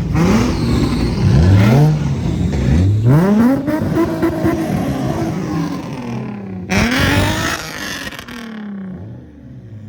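A car engine revved hard several times in quick succession, its pitch sweeping up and dropping back, then held high for a couple of seconds. It is revved once more about seven seconds in, then falls back and grows quieter near the end.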